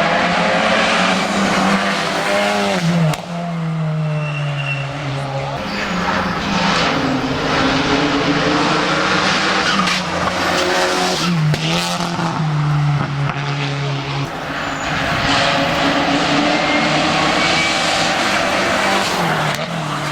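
Racing car engine running hard at high revs, its pitch held level for seconds at a time and dipping briefly a few times before coming back up.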